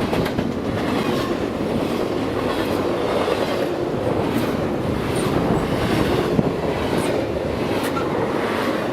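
BNSF freight train cars rolling past: a steady rumble of steel wheels on the rails with clicks at the rail joints and a few brief high squeaks from the wheels.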